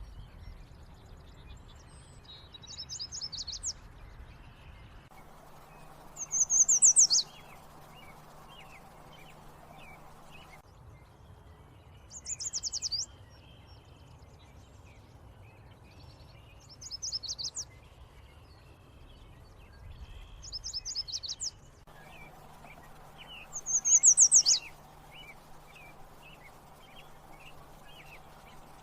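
Yellow warbler singing: a short, quick phrase of high notes, repeated about six times, every three to five seconds.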